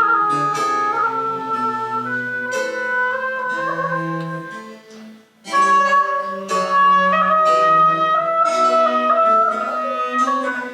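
Baroque chamber music: a flute plays a sustained melody over plucked-string continuo accompaniment with a bass line. A phrase ends with a brief pause about five seconds in, then the next phrase begins.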